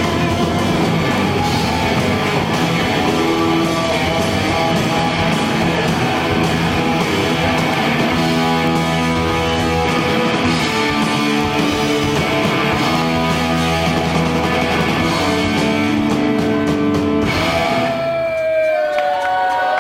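Live rock band playing a loud instrumental passage: electric guitars, bass and drums. About seventeen seconds in the full band drops out, leaving a lone ringing note that slides and bends in pitch.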